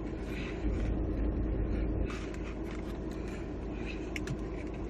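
Steady low rumble in the background, with soft chewing and mouth noises and a few brief sharp clicks about four seconds in.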